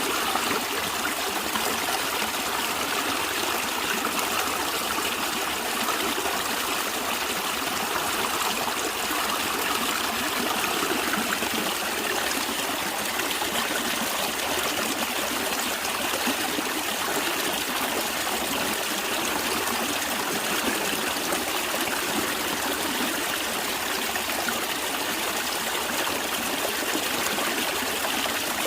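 Stream water running and trickling in a steady, even flow.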